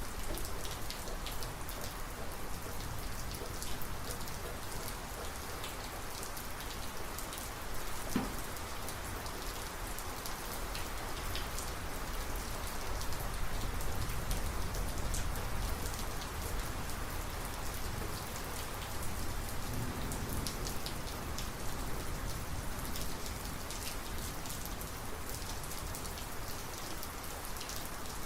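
Heavy rain falling steadily, with individual drops ticking close by. A low rumble swells around the middle.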